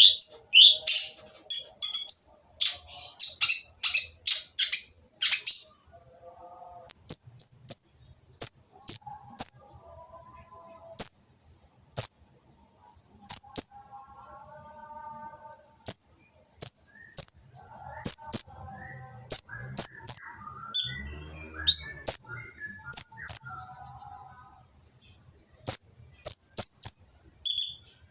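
Kolibri ninja (brown-throated sunbird) calling with sharp, high, harsh chips. A rapid run of chips in the first few seconds slows to single and paired chips about a second or two apart.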